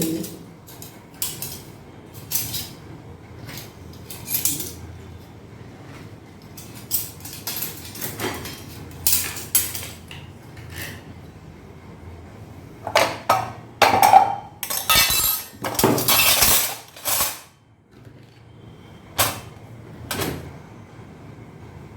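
Kitchen utensils and dishes clinking and clattering as they are picked up and set down. There are scattered knocks, then a louder run of clanks about two-thirds of the way through, one with a brief metallic ring.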